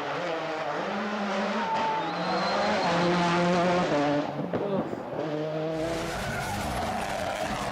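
Rally car engine at high revs, its pitch stepping up and dropping back with gear changes and throttle lifts, with a brief dip about four seconds in.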